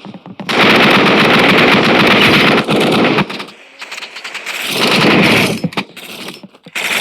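Loud, very rapid crackling, like static or machine-gun fire, in a long stretch of almost three seconds, then a shorter swell around five seconds in, and again near the end.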